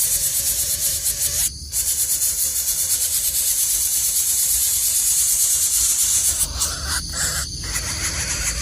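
Steady, high-pitched insect chorus droning without a break, with a low rumble beneath it; it drops out briefly about a second and a half in and twice more near the end.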